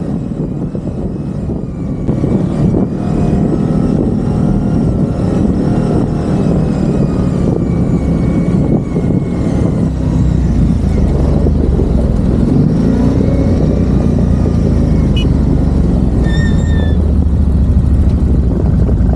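ATV engine running and revving, its pitch rising and falling unevenly.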